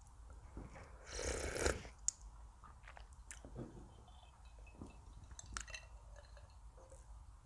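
A person chewing food close to the microphone, with small wet mouth clicks. About a second in comes a louder noisy burst lasting under a second.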